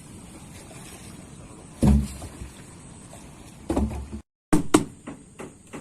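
Two heavy thumps about two seconds apart, then, after a brief dropout, a quick run of sharper knocks.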